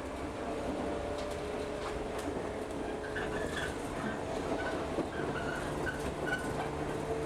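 Cabin running noise of a local electric train under way: a steady rumble with a few sharp clicks from the wheels on the track. A low steady hum joins in about five seconds in.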